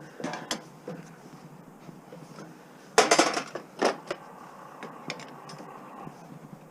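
Metal scrap clinking and clattering as parts are handled and pulled apart, with a few sharp clicks and a louder cluster of knocks about three seconds in.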